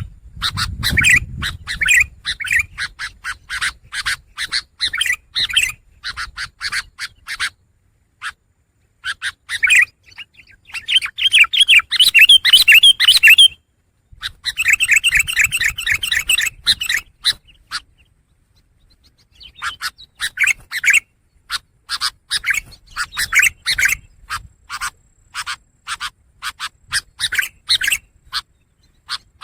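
Long-tailed shrike (pentet) singing rapid, scratchy chattering phrases in several dense bursts, with short pauses about a third and two thirds of the way through.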